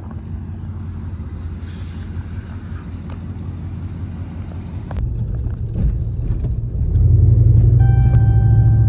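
Pickup truck being driven, a steady low engine and road rumble that grows louder about five seconds in and again about seven seconds in. A steady high tone joins near the end.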